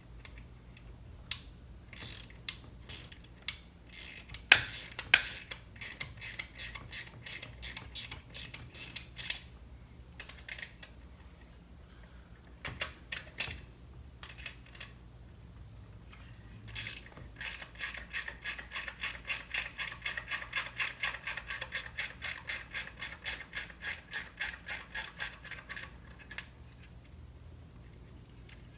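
Ratchet wrench clicking as the broken bar stud is backed out of a Stihl MS661 chainsaw. The clicks come in irregular strokes at first, then in a steady run of about four a second, which stops a couple of seconds before the end.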